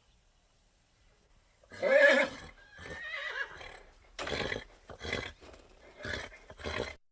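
A horse neighs about two seconds in, then gives four short, breathy snorts.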